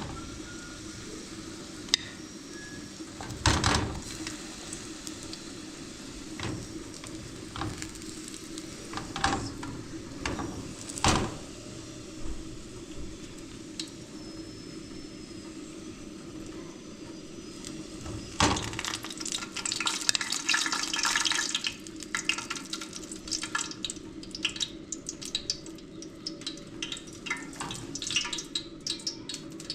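Scattered knocks and clinks of pots and dishes being handled over a steady low hum, with a stretch of hissing about two-thirds through and quicker clinking near the end.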